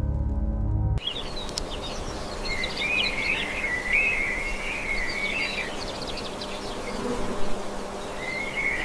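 Birds chirping and twittering over a steady outdoor noise, after background music cuts off about a second in.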